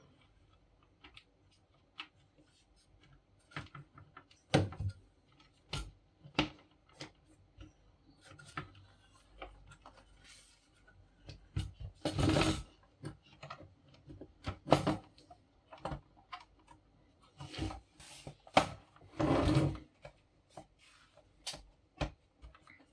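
Hands working on a paper laminator's parts: irregular small clicks and knocks, with two louder rubbing or scraping sounds lasting about a second each, about halfway through and near the end.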